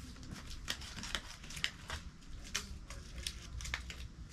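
Small craft items and their packaging being handled on a table: about a dozen light, irregular clicks and rustles.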